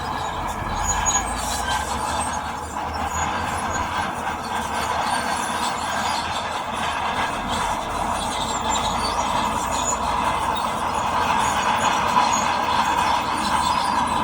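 Shantui DH17C2 crawler bulldozer working: its diesel engine running under load and its steel tracks giving a steady metallic squeal and clatter, a little louder in the last few seconds.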